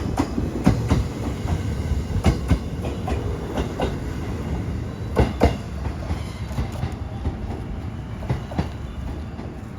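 A 113 series electric train rolling over rail joints or points: its wheels clack in quick pairs, one pair per bogie, over a steady rumble. The clacks grow fewer and the sound gets quieter as the train moves away.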